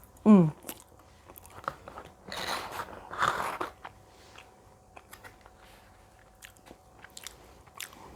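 A person eating close to the microphone: chewing and biting with crunchy bites about two and three seconds in and many small wet mouth clicks. Near the start a short hum of the voice falls in pitch.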